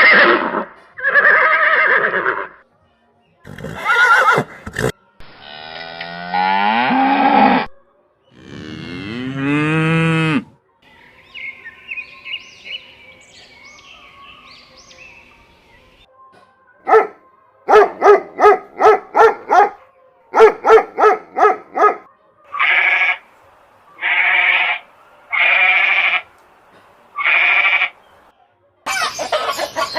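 A run of different animal calls, one clip after another, with cattle mooing among them. Long drawn-out calls that glide in pitch come first, then a quick series of short calls, then four evenly spaced calls.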